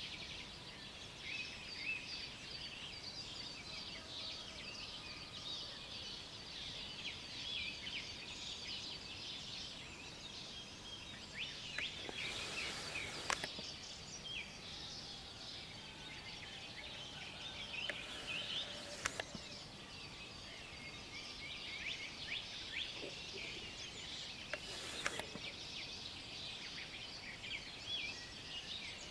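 Many small birds chirping and singing together in a continuous morning chorus, broken by a few brief, louder noisy bursts about twelve, eighteen and twenty-five seconds in.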